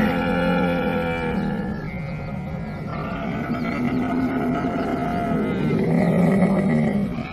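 Camel calling in long, pitched vocalisations: one call ends about a second and a half in, and a second, longer call follows and stops just before the end.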